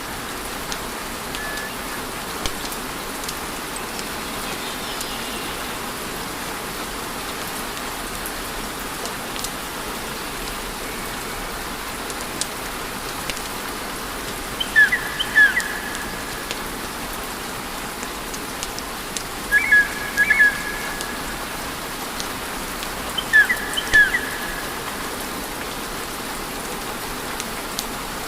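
Wood fire burning with a steady hiss and faint scattered crackles. A few short, high chirps, in pairs, come about halfway through and twice more toward the end; these are the loudest sounds.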